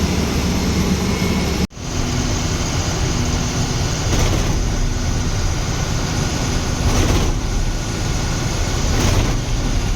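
Steady engine and road noise of a 14-wheel truck, heard from inside the cab, with a very brief drop-out a little under two seconds in.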